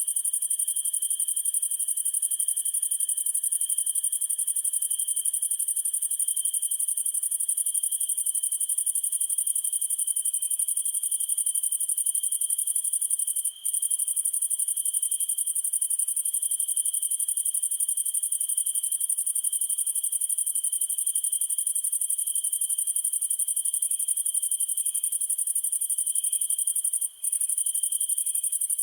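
Night insect chorus of crickets: a steady high-pitched trilling with a lower, gently pulsing chirp beneath it. The whole sound drops out for an instant twice.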